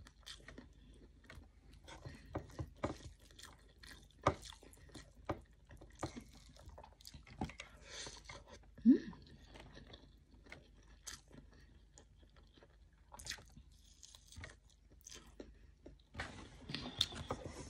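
Close-up mouth sounds of a person eating rice and omelette by hand: chewing with many small wet clicks and smacks. About nine seconds in there is a short falling hum.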